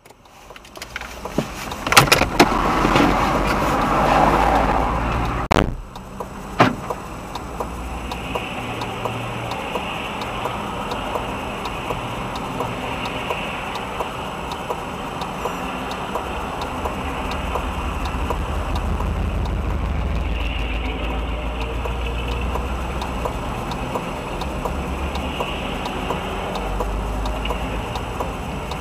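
Car driving on the road, with a few sharp bangs and a loud noisy stretch in the first seconds, then steady engine and road noise.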